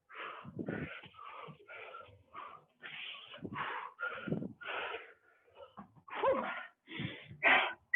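A person breathing hard and fast from exertion, with sharp exhales and inhales about twice a second that grow louder near the end.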